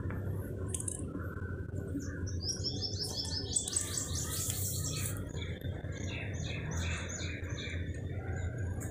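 Small birds chirping, with a quick run of repeated high chirps about two to five seconds in, over a steady low background rumble.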